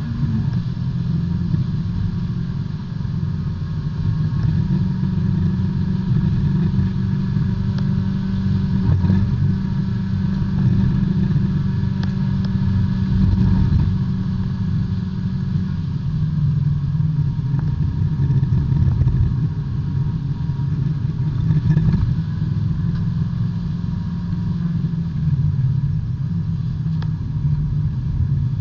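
Engine of a B-Spec subcompact race car at racing speed, heard from inside the car. Its pitch rises and falls with throttle and gear changes.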